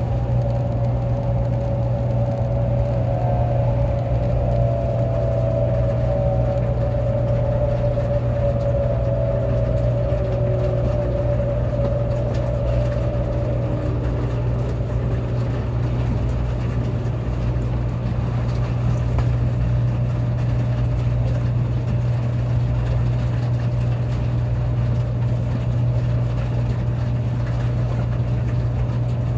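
Cabin sound of a Taiwan High Speed Rail train slowing to a stop: a steady low rumble, with the traction motors' whine gliding down in pitch and fading out about halfway through as the train brakes into the station.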